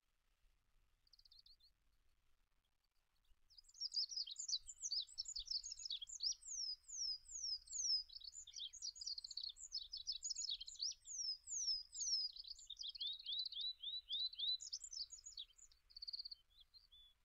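Olive-backed pipit singing: one brief high note, then a long, fast, high-pitched jumble of trills and quick down-slurred whistles lasting over ten seconds.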